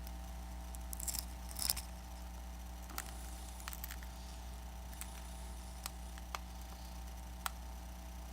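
Scattered small clicks and brief scrapes of plastic pry tools and picks working under the glued display glass of an iPad Air 2, the loudest a short cluster about a second and a half in. A steady low electrical hum sits underneath.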